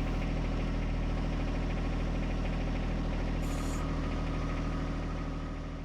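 John Deere 1025R compact tractor's three-cylinder diesel engine running steadily, fading out near the end.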